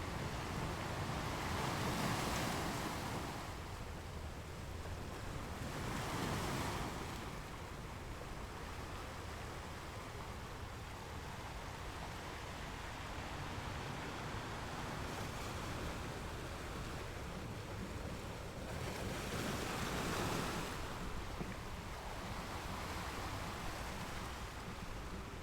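Ocean waves washing on a shore, a steady surf hiss with a few waves swelling louder, about 2, 6 and 20 seconds in.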